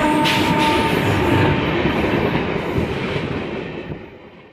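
Train sound effect: a horn tone dies away in the first second, then the rumble and clatter of a train running on the rails fades out toward the end.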